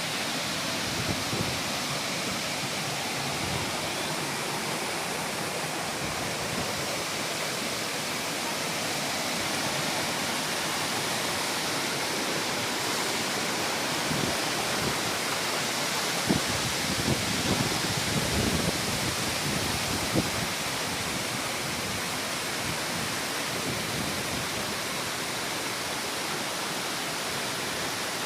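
Waterfall: a steady, even rush of falling water, with a few short louder splashes a little past the middle.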